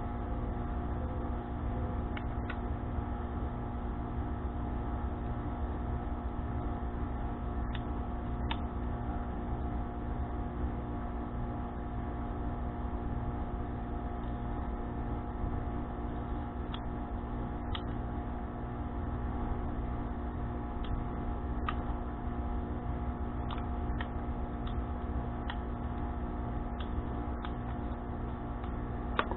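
Steady mechanical hum made of several fixed pitches, with scattered light clicks or taps.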